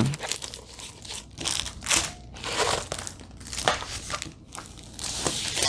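Paper crinkling and rustling in irregular bursts as a rolled diamond painting canvas with a paper cover is handled and unrolled.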